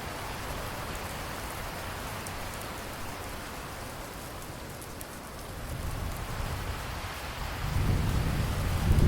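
Steady rain falling with a low thunder rumble that swells about six seconds in and grows louder near the end.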